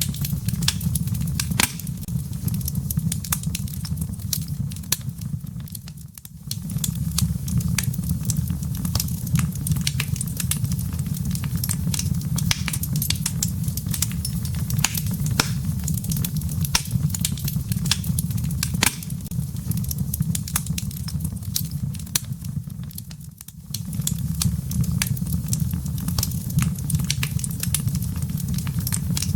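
Wood fire burning in a fireplace: dense, irregular crackles and pops of burning firewood over a steady low rumble of the flames. The sound dips briefly twice, about six seconds in and again near twenty-three seconds.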